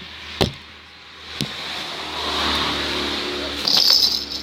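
A motor vehicle passing by, its noise swelling up over a couple of seconds and dying away near the end, after two short knocks about half a second and a second and a half in.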